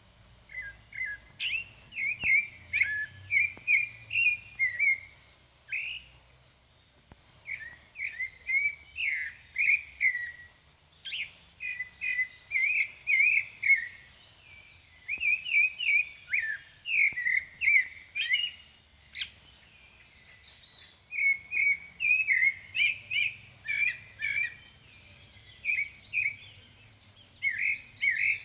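A sabiá thrush singing: phrases of several quick, sliding whistled notes, one after another with short pauses between them.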